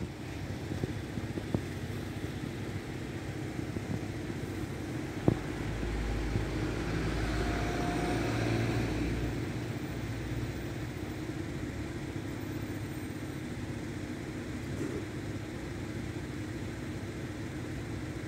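A vehicle passing by: a low rumble and rushing noise that builds about six seconds in, peaks around eight to nine seconds and fades again, over steady background traffic hum. A single sharp knock comes about five seconds in.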